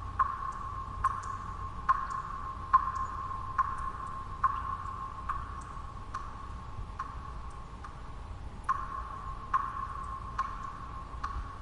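Water drops falling one at a time in a steady rhythm, a little more than one a second, each a short plink that rings briefly on the same tone. Under the drops is a low, steady background noise.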